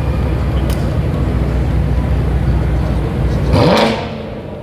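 Sports car's engine idling with a deep, steady exhaust rumble, then a single quick throttle blip about three and a half seconds in that rises in pitch and cuts off, leaving the exhaust quieter.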